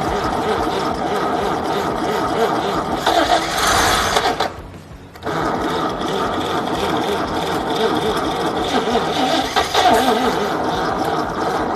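Chevrolet stovebolt inline-six on a test stand being started for the first time for cam break-in, cranking and running with a fast, even mechanical clatter. The sound drops away briefly just under five seconds in, then picks back up.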